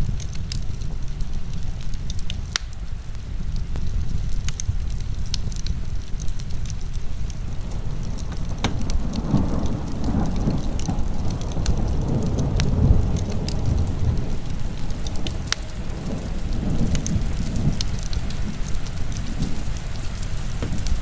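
Heavy rain falling steadily, mixed with a wood fire crackling in scattered sharp pops. A low rumble swells and fades over several seconds in the middle.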